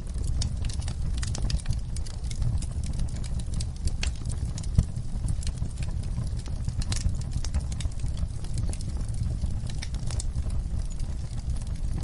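Wood fire burning in a fireplace: a steady low rumble with frequent irregular crackles and snaps, and one louder pop a little before halfway.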